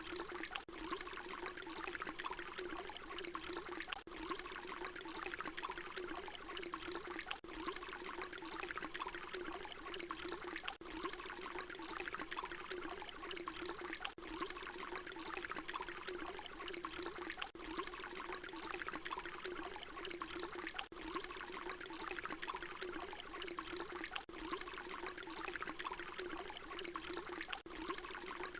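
Water pouring steadily with a trickling splash. The short recording is looped, so it restarts about every three and a half seconds with a brief dip at each join.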